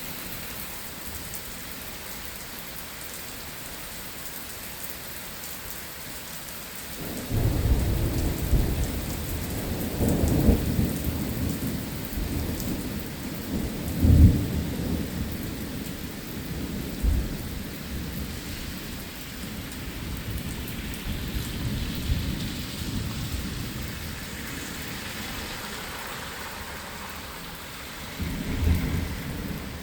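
Steady rain falling, with thunder breaking in about seven seconds in: a long low rumble with several louder peaks that slowly dies away, then another rumble starting near the end.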